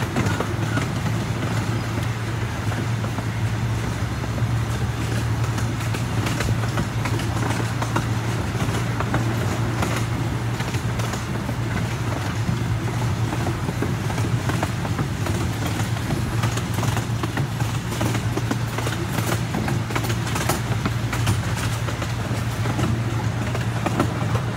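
Small amusement-park train running steadily along its track, heard from an open passenger car: a constant low rumble and hum with scattered clicks and rattles from the wheels and cars.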